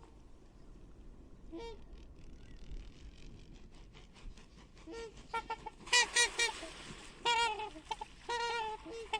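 A series of short, pitched bird calls, like fowl such as geese: faint at first, then louder and coming in quick runs from about halfway through.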